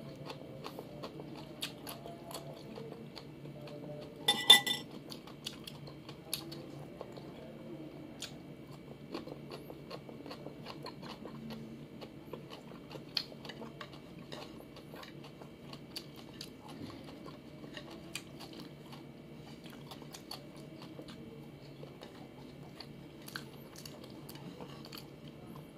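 Close-up eating sounds: chewing, with small crunches and clicks as rice and fried dried fish are eaten by hand. A dish clinks with a short ring about four and a half seconds in.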